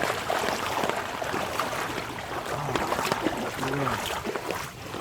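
Floodwater splashing and sloshing around legs as someone wades through it, in a steady run of irregular splashes.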